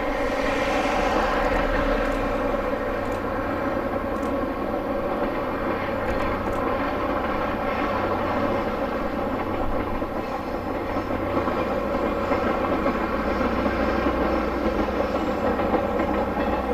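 A rail vehicle running: a steady mechanical drone with a pitched hum over a low rumble, a little brighter in the first couple of seconds.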